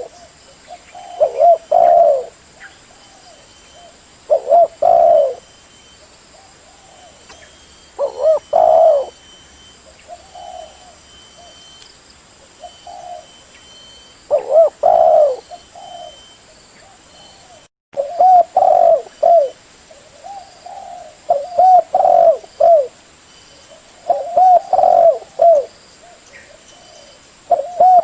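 Spotted dove (tekukur) cooing: about eight phrases of several short, pitched coos a few seconds apart, with fainter coos in between.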